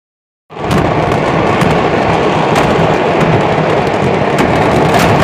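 A fireworks market's stockpile of fireworks going off all at once: a loud, continuous rumbling barrage of bangs and crackling, with sharper cracks standing out every second or so. It starts abruptly about half a second in.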